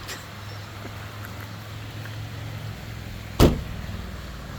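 A car door slams shut about three and a half seconds in, over the steady low hum of an idling car engine.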